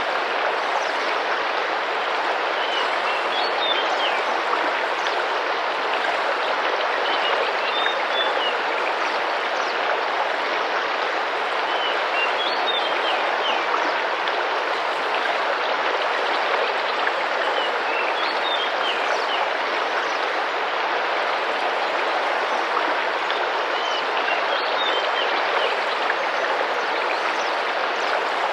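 Tropical rainforest river running and splashing steadily, with a bird giving a short chirping call every few seconds.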